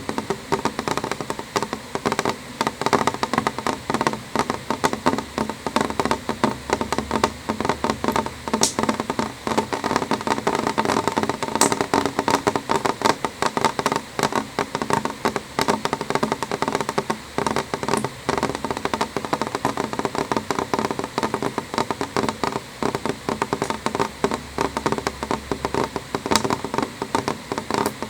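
Rain falling on a window: a steady, dense patter of drops tapping the glass, with a few sharper, brighter taps now and then.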